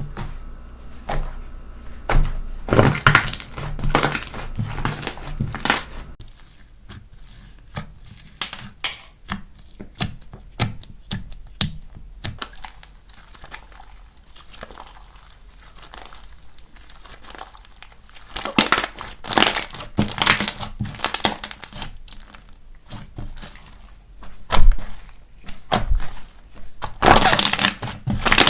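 Slime being squeezed, poked and pressed by hand: dense crackling, clicking and popping, with louder crunchy stretches near the start, about two-thirds through and near the end.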